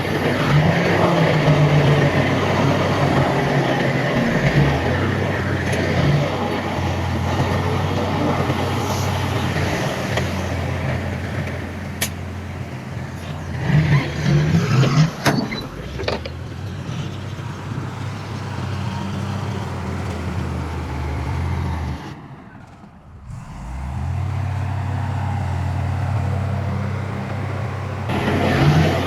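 Heavy diesel earthmoving machinery running steadily under load, with a couple of sharp knocks around the middle. The engine sound drops away briefly a little after two-thirds of the way through, then resumes.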